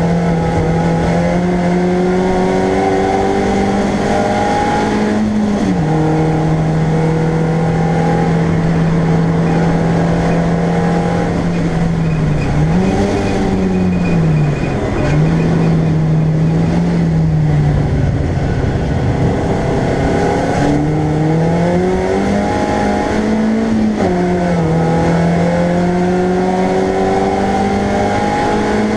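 BMW Compact race car's engine heard from inside the stripped cabin, pulling under load at a steady high level. Its note climbs slowly and drops sharply at gear changes about five seconds in and again around twenty-four seconds, with a brief rise and fall in between.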